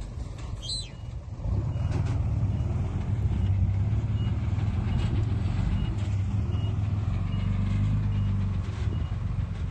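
Diesel engine of heavy earthmoving equipment running with a deep rumble, getting louder about a second and a half in as it works harder. Faint short beeps repeat at a regular pace through most of it.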